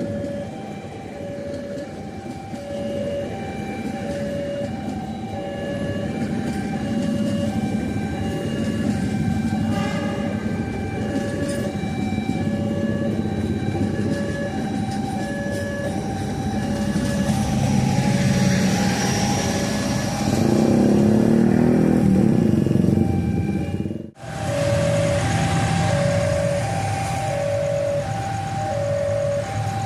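Railway level-crossing warning signal sounding a two-note electronic chime that alternates steadily, a little over a second per pair, over the rumble of a train passing. The train noise swells in the second half.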